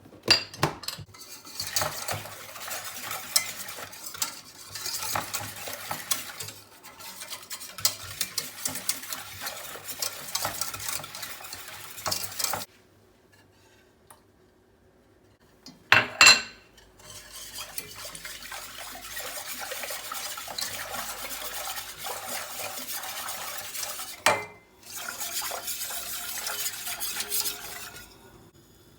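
A kitchen utensil stirring and scraping against a dish, in three stretches broken by short pauses, with a sharp knock about sixteen seconds in and another near twenty-four seconds.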